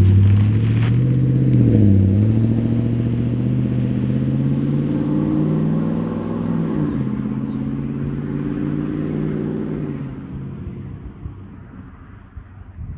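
Car exhaust with a Flowmaster 50 muffler, accelerating away. The engine note climbs, drops at two upshifts about two seconds in and near the middle, then fades out.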